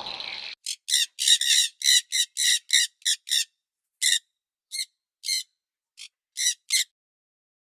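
A bird giving a run of short, high chirps, quick-fire at first and spacing out after about three seconds, with clean silence between the calls.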